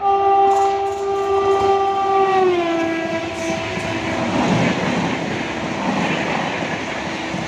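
WAP7 electric locomotive's horn sounding one long blast, dropping in pitch about two and a half seconds in as the locomotive passes, then fading under the rush and clatter of an express train's coaches going by at about 130 km/h.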